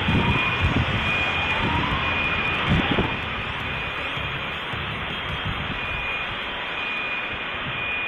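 Loud, steady rushing noise with a faint high beep that repeats about once a second, and a few low thumps in the first three seconds.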